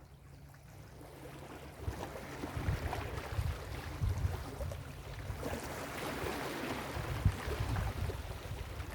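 Ocean surf washing onto a beach, a wash of noise that swells louder about two seconds in, with wind gusting on the microphone.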